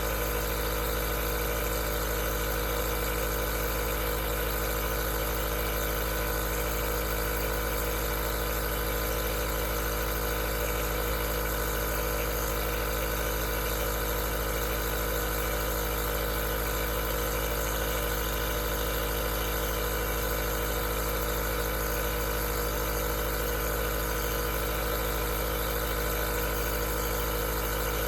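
Aerosol nebulizer running steadily: a constant motor hum with an even hiss of air over it, unchanging throughout.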